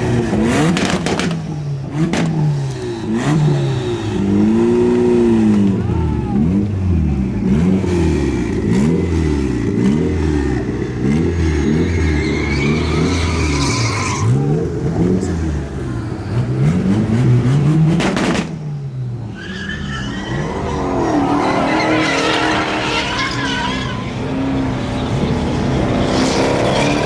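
Truck engine revved hard over and over, its pitch rising and falling every second or two, with tire squeal during a burnout.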